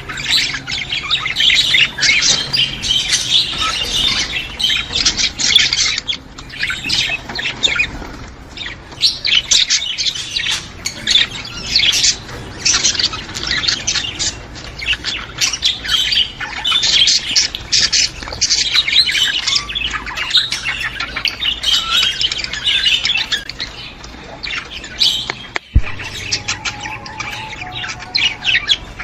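Budgerigars chattering: a dense, continuous stream of short chirps, squawks and warbles. A single sharp click sounds near the end.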